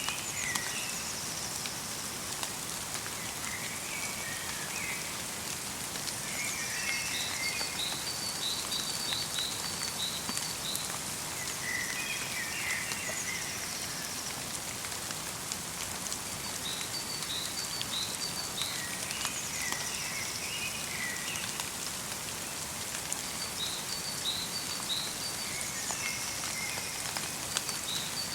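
Light rain falling steadily in a forest, with small songbirds calling over it: runs of short, high, repeated notes and chirpy twittering phrases that come back every few seconds.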